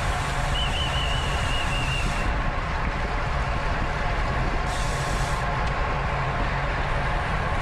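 Wind rushing over a bike-mounted camera's microphone with road and drivetrain noise from a racing bicycle. A brief high warbling tone comes about half a second in, and a brighter hiss rises twice.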